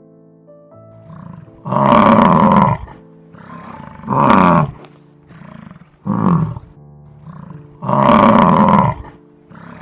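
Bison bellowing: four loud bellows, the first and last about a second long, with quieter grunts in between, over soft background music.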